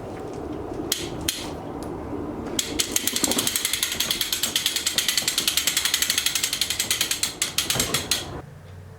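A ratchet mechanism clicking rapidly and evenly, about eight to ten clicks a second, for roughly five and a half seconds and then stopping. A few single clicks come before it.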